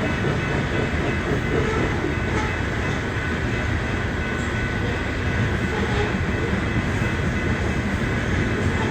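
Long freight train of coal cars rolling past, a steady rumble of wheels on the rails.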